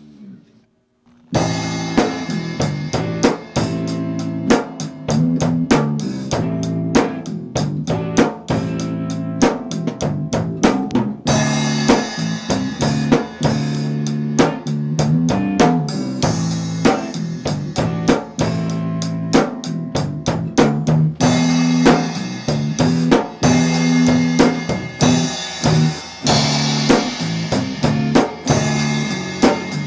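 Rock band playing an instrumental passage, with a drum kit's kick and snare keeping a steady beat over bass. It starts after a pause of about a second.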